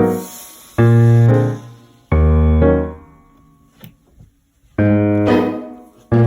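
Background piano music: slow chords struck one after another, each left to ring and die away, with a quiet pause in the middle before the chords return.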